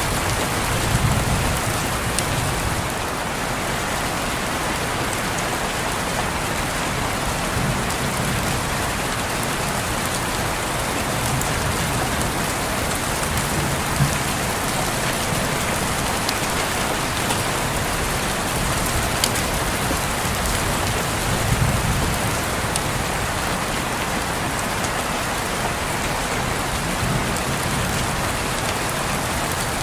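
Steady, dense rain on a window pane, with scattered sharper drop ticks and a few soft low rumbles that come and go.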